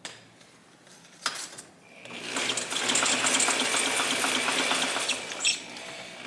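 Gears of a 1971 Honda SL125's opened transmission spinning in second gear, giving a fast, steady mechanical rattle for about three seconds. A single click comes just before it.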